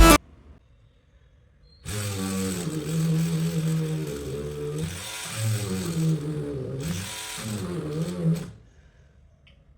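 Homemade drill built around a 555 DC motor running, starting about two seconds in; its pitch repeatedly sags and recovers before it stops about a second before the end.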